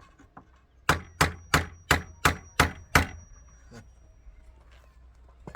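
Seven quick, evenly spaced hammer blows, about three a second, with a high metallic ring that carries through the strikes.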